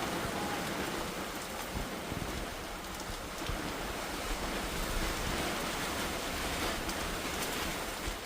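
Heavy monsoon rain falling steadily, an even hiss with a few sharper drop hits.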